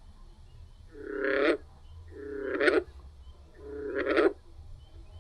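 Recorded frog calls: three pulsed, croaking calls, each lasting under a second and swelling in loudness before cutting off, repeated at a steady pace.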